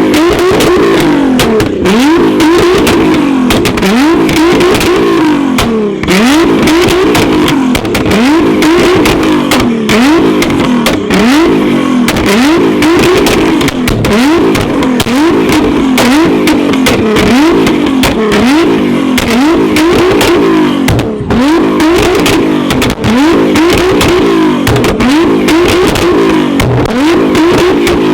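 Tuned car's engine revved over and over, each rev shooting up sharply and falling away, about two revs every three seconds, with sharp exhaust crackles between them.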